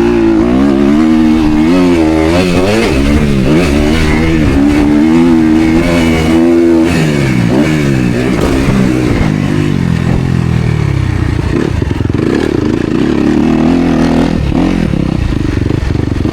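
Motocross dirt bike engine ridden hard, its revs repeatedly rising and falling with throttle and gear changes.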